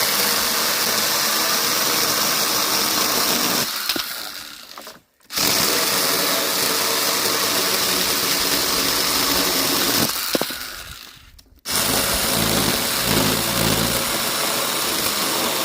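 Ryobi one-handed electric saw running in three bursts. The motor winds down after each trigger release and starts up sharply again about 5 and 11.5 seconds in.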